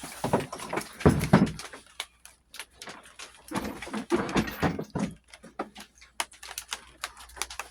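Irregular metal clinks and knocks of hand tools being handled, such as sockets being picked out and fitted, with a louder clatter about a second in and another near the middle.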